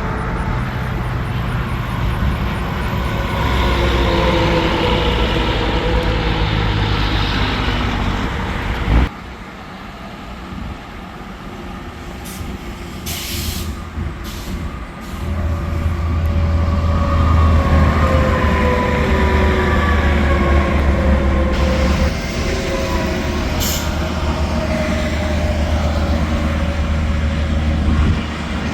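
Semi-trucks passing on an interstate highway: diesel engine drone and tyre noise, with engine tones falling in pitch as the trucks go by. The sound drops suddenly about nine seconds in, then builds again into a strong low drone as another heavy truck passes.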